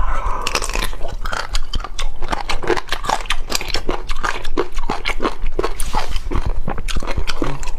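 A person biting and chewing crunchy jellyfish head, with a dense run of rapid crackling crunches.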